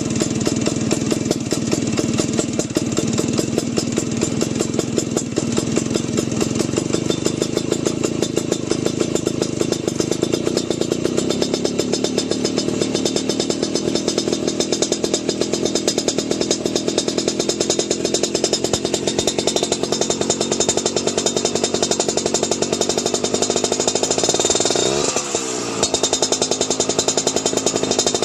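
Classic Vespa scooter's two-stroke single-cylinder engine running steadily through a racing exhaust, with a fast, even firing rattle. Near the end the revs dip briefly and pick back up.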